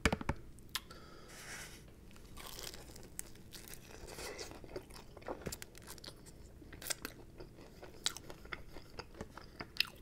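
Biting and chewing a fried chicken wing coated in hot sauce, with scattered small crunches and mouth clicks. A sharp click sounds right at the start.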